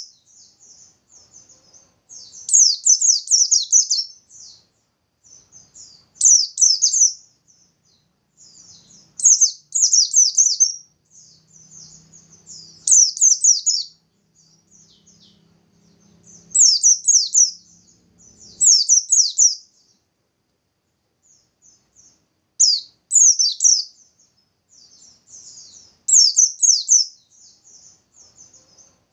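White-eye (pleci) singing in fast, high-pitched bursts of rapid twittering song, each about one to two seconds long and repeated every three to four seconds, with softer scattered chirps between. This is the vigorous 'nembak' song that keepers use to prompt other white-eyes to sing.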